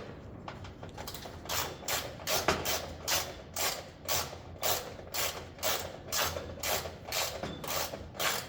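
A hand tool worked in short repeated strokes, about two a second, each a brief scraping or ratcheting rasp, beginning about a second in.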